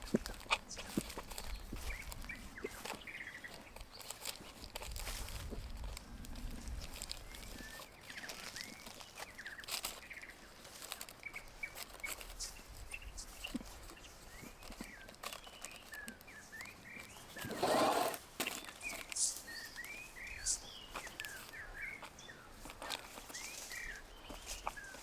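Small birds chirping in short, repeated calls, with scattered clicks and knocks, and one louder brief noisy rush about two-thirds of the way through.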